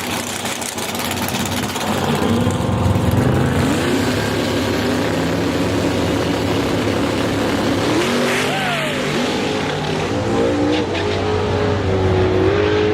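Drag race car engines running at the strip, revving so the pitch rises and falls several times over a steady roar of noise.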